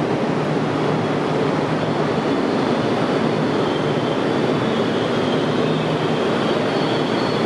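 Network Rail engineering train of new DR 79-series units passing through the station, with a steady rumble of wheels on rail and a low running hum; a faint high-pitched squeal comes and goes.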